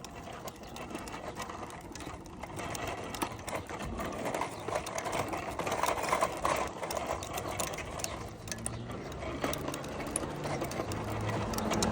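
Rapid, steady mechanical ticking and whirring from a bicycle: the freewheel ratchet clicking as the bike coasts, over tyre noise on pavement.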